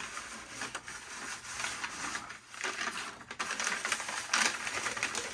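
Newspaper packing being unwrapped by hand, rustling and crinkling irregularly as small model parts are taken out.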